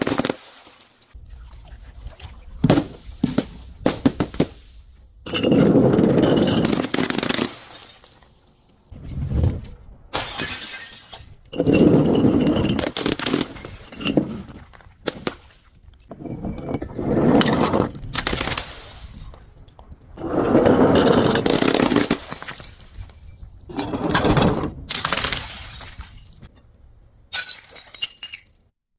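Glass bottles and other brittle objects being crushed: crunching and shattering over and over in rough bursts about two seconds long, every few seconds, with short sharp clinks of breaking pieces in between.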